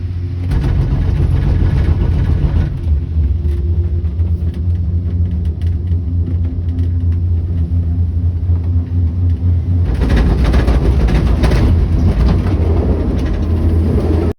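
Steady mechanical rumble of a Skyrail cableway gondola running along its cable, with a low hum underneath; it grows louder and rougher about ten seconds in.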